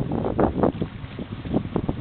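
Wind buffeting the camera microphone: an uneven, gusty rumble that swells and drops every fraction of a second.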